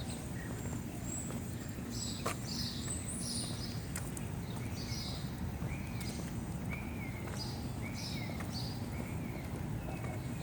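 Several birds calling outdoors, with short high chirps repeating throughout and, in the second half, a short rising-and-falling call repeated about once a second, over a steady low background rumble. A single sharp click sounds a little over two seconds in.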